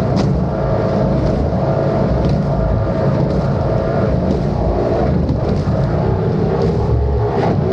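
Outboard engines of a speedboat running steadily at speed, a constant engine note over the rush of water, with a few brief sharp knocks.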